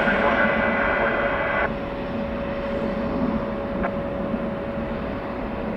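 Steady airliner engine noise at the airport, with a constant hum tone. A band of radio hiss from the air-band scanner cuts off sharply about a second and a half in as the channel closes.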